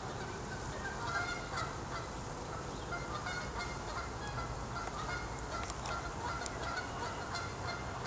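Birds calling repeatedly in short notes over a steady low rumble of background noise.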